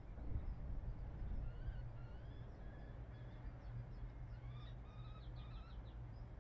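Faint bird calls, a run of short wavering chirps and quick twitters, over a steady low rumble.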